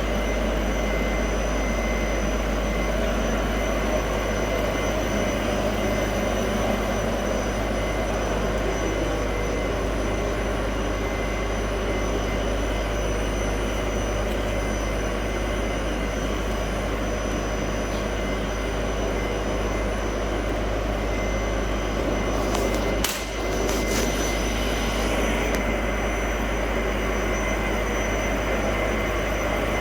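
A 60 mm LDPE extruder running steadily: a constant mechanical drone with a low hum and a few steady high tones, and a brief clatter of clicks about 23 seconds in.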